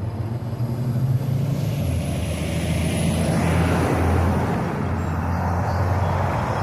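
Motor vehicle engine running steadily, with road and wind noise; a rush of noise swells between about two and four seconds in.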